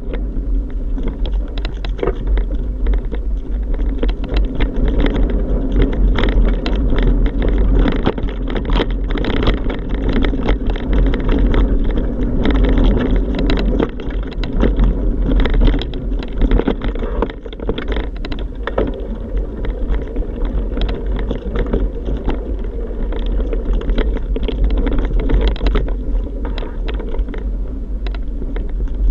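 Continuous riding noise from a moving bike: a steady deep rumble with frequent rattles and knocks all the way through.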